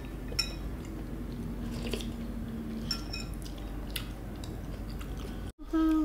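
Close-up eating sounds of congee and pork: chewing with small wet clicks and smacks of mouths and spoons.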